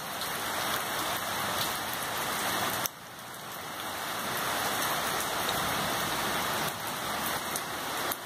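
Heavy rain falling steadily, with scattered fine ticks of drops close by. The level drops suddenly about three seconds in, then builds back up.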